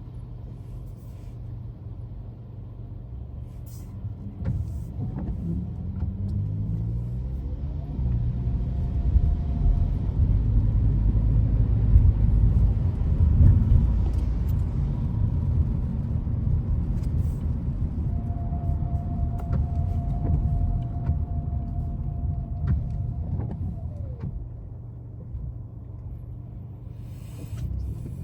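Car driving: a steady low rumble of engine and road noise. The engine note rises as it accelerates about five seconds in, and the rumble grows loudest around the middle.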